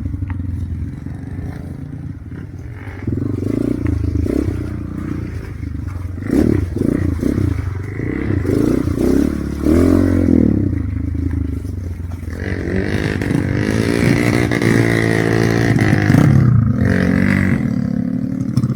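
Motorcycle engine revving hard, its pitch swinging up and down several times and then held high for the last several seconds.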